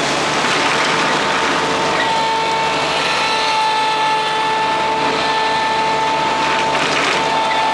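Madvac diesel rider vacuum running, its Kubota D1105 three-cylinder diesel driving the vacuum: a loud, steady rushing noise with a high whine held at one pitch.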